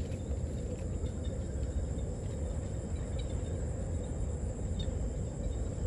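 Insects, crickets by the sound of it, trilling steadily in one high, unbroken tone over a low background rumble.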